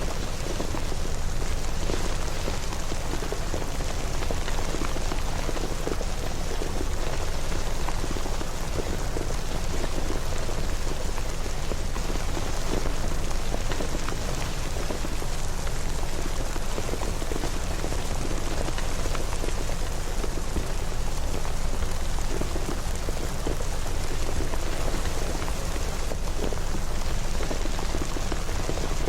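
Steady rain falling and pattering on a surface, an even hiss with many small drop impacts and no let-up.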